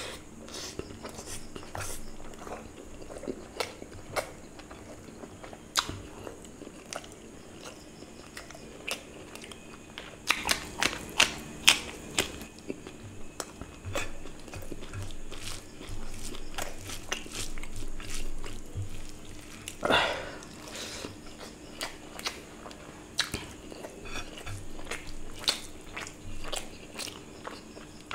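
Close-miked chewing and biting of curry and rice eaten by hand, with many wet mouth clicks and smacks that come thickest about ten to twelve seconds in. There is a short breathy sound about twenty seconds in.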